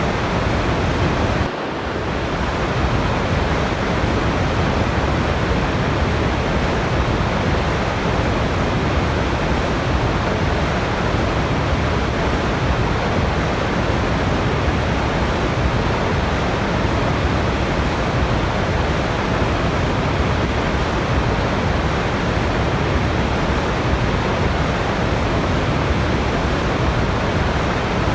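Steady rushing water of a waterfall, an even full-range roar that briefly dips about a second and a half in, then carries on unchanged.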